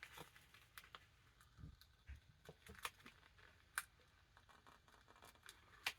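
Near silence with faint, scattered clicks and paper rustles from handling the torn binding of a large hardback book.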